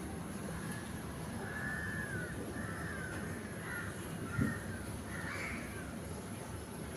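A bird calling about six times in a row, over a steady low rumble, with one low thump about two-thirds of the way through.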